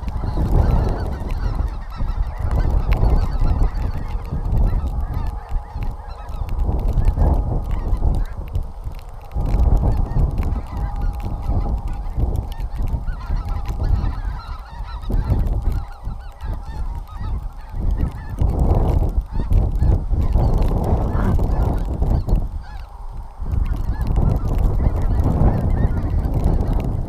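A large mixed flock of snow geese and greater white-fronted geese (specklebellies) calling, many birds yelping and honking over one another in a continuous din over a steady low rumble.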